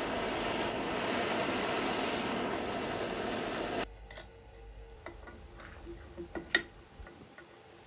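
A power tool runs steadily with a dense whirring noise, then cuts off abruptly about four seconds in. A few light, sharp clicks and taps follow.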